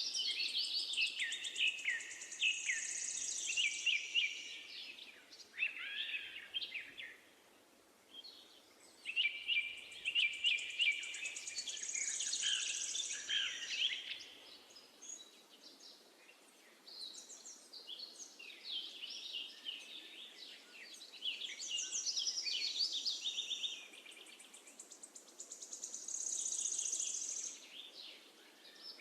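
Birdsong: several birds singing in overlapping bursts of chirps and trills, with short lulls between bursts, over a faint steady hiss.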